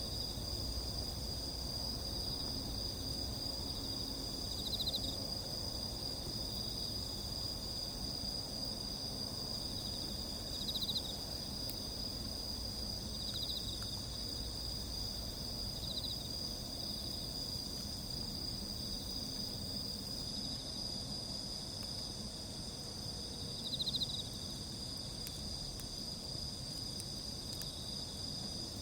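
Crickets and other insects trilling steadily, with a short, louder pulsed chirp every few seconds, over a low background rumble.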